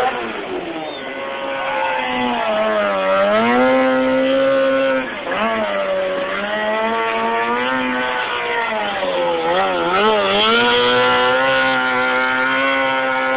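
Motorcycle engine revving hard and holding high revs for several seconds at a time, the pitch dropping and swooping back up a few times as the throttle is eased and reopened.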